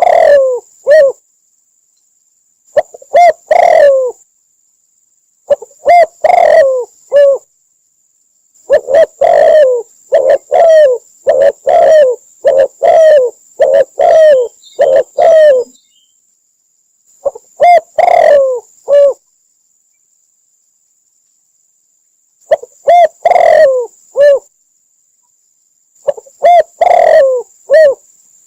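Spotted dove cooing: repeated phrases of several low, rolling coos, with gaps between phrases where the sound cuts out completely.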